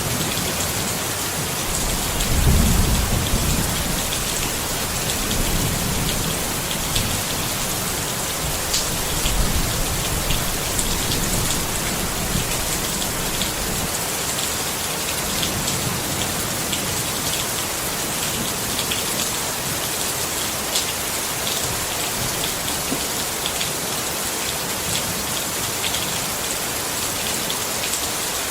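Steady rain falling on a tent, with individual drops ticking on the fabric. Low rumbling of distant thunder swells a couple of seconds in and fades out about halfway through.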